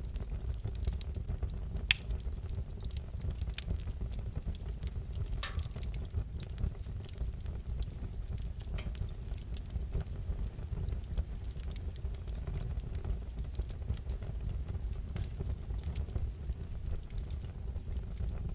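Fire in a fireplace crackling: a steady low rumble with scattered sharp pops and snaps, one louder pop about two seconds in.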